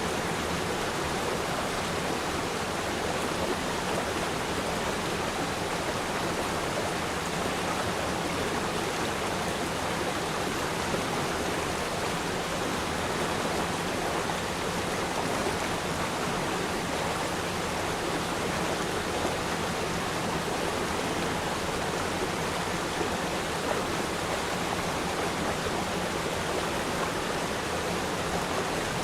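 River stream flowing steadily over rocks: an even, unbroken rush of water.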